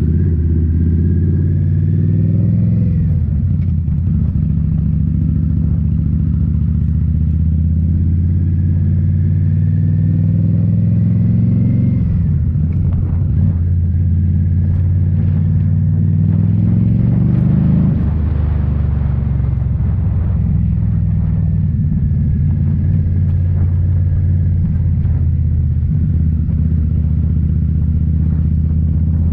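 2018 Indian Scout Bobber's V-twin engine through Rinehart slip-on mufflers, heard while riding: it climbs in pitch under acceleration, drops at each upshift, and climbs again, with shifts about 3, 12 and 18 seconds in.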